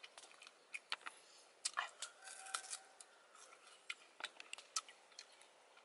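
Close-up mouth sounds of someone eating soft fruit: wet chewing and lip-smacking, heard as a run of short, sharp, irregular clicks.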